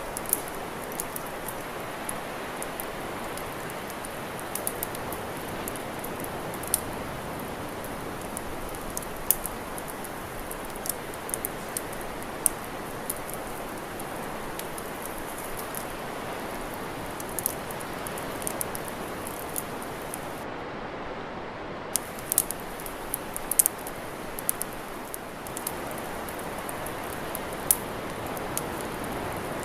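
Wood campfire crackling: sharp, irregular pops and snaps over a steady rushing hiss.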